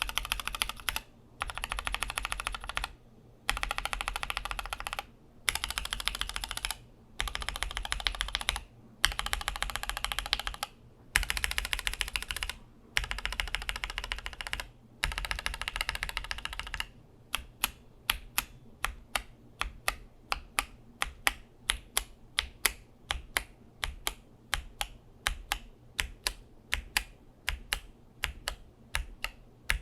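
Mechanical keyboard fitted with Gateron Milky Yellow linear switches being typed on: bursts of fast typing, each about a second and a half long with short pauses between, then, about halfway through, single keystrokes at a fairly even pace.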